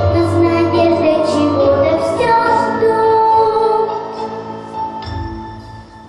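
Young female voice singing with an instrumental backing track; the music thins out and dies down near the end.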